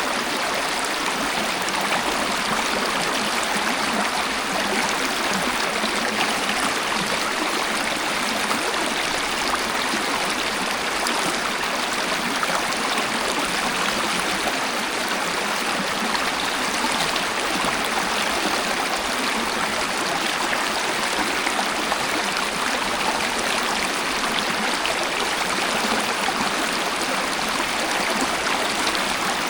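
Waterfall and flowing stream water rushing steadily, with a little trickling and gurgling.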